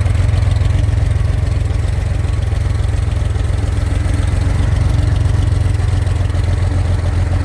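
Newly built 2.9-litre Corvair air-cooled flat-six idling steadily on race carburetors fitted with chokes.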